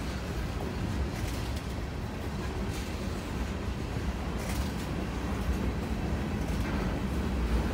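Freight train rolling past: covered hopper cars running by with a steady low rumble of wheels on rail, with a few faint clicks.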